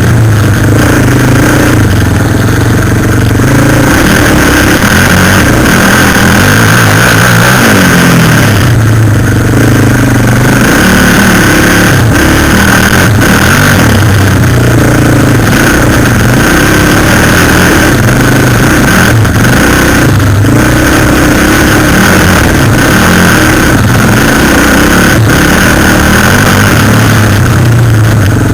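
Suzuki LTZ 400 quad bike's single-cylinder four-stroke engine running under way at close range, very loud, its pitch rising and falling as the throttle opens and eases.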